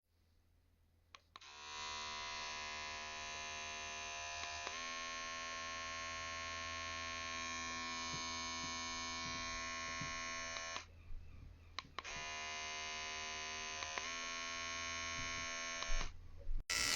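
Small electric pet hair trimmer switched on with a click and running with a steady, even hum. It stops about eleven seconds in and is switched back on a second later. It runs for about four more seconds, then cuts off, followed by a couple of loud knocks.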